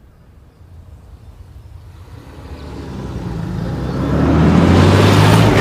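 A motor vehicle engine approaching and passing close by, growing steadily louder and peaking near the end.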